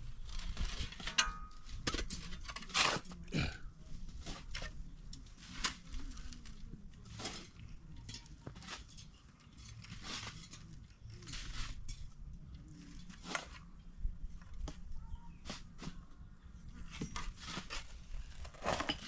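Irregular crunches and scrapes of soil and gravel being worked or walked on, several a second at times, with no steady rhythm.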